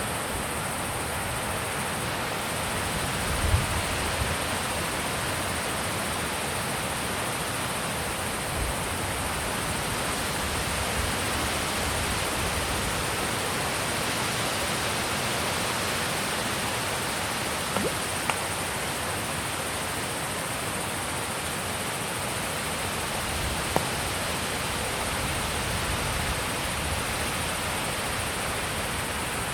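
Steady wind blowing, an even rushing noise, with a brief low thump of wind on the microphone about three and a half seconds in and a couple of faint clicks later on.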